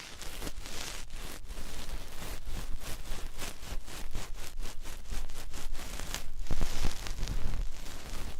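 Close-miked ear-cleaning tools scraping and rustling at the ear: rapid, irregular scratches, with two longer brushing swells, one about a second in and a louder one about six and a half seconds in.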